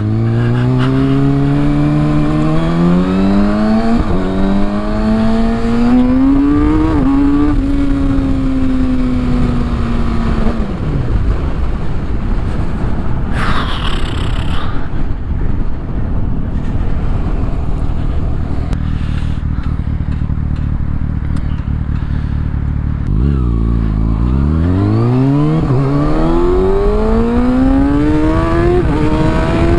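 Kawasaki ZX-6R inline-four with a Yoshimura exhaust accelerating through the gears, its pitch climbing and dropping back at each upshift, then easing off under heavy wind noise on the helmet mic. About two-thirds of the way through it pulls hard again from low revs, shifting up twice more. There is a brief higher-pitched sound near the middle.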